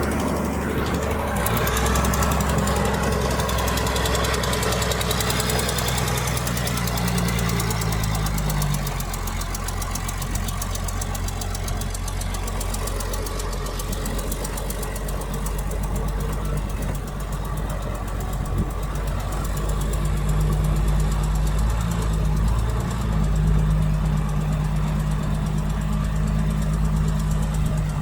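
Diesel engine of heavy earthmoving machinery running steadily, with its low engine note dropping in pitch about eight seconds in and rising again in the last third.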